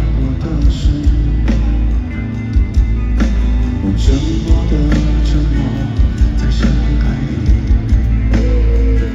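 Live pop-rock band music at a stadium concert, with a drum beat and heavy bass.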